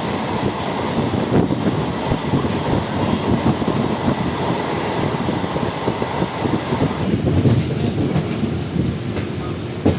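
MEMU electric multiple-unit train running along the line, heard from on board: a steady rumble and rush of the wheels on the rails, with a brief high squeal from the wheels near the end.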